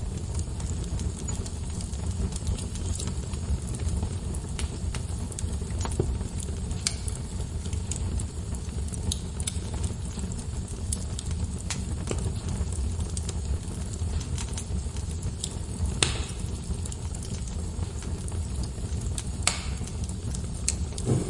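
Wood fire crackling in a fireplace: scattered sharp pops and snaps over a steady low rumble, with the loudest pop about 16 seconds in.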